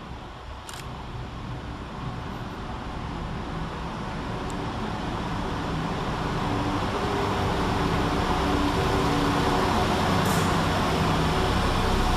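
Two coupled Class 172 diesel multiple units approaching, their engine sound growing steadily louder. A steady engine hum comes in over the second half.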